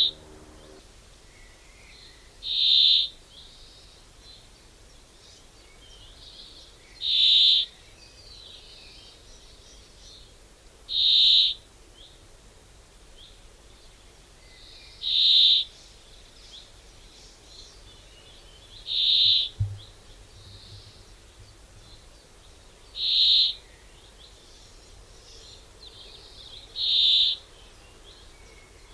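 A bird giving the same short, loud, high call again and again, about every four seconds, with fainter chirps of other birds between the calls.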